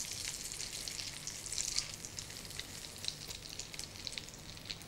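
Breaded potato patties (aloo tikki) sizzling in shallow oil in a steel frying pan, a steady crackle with many small pops. They are done and the burner has just been switched off, so the oil is still sizzling on its own heat.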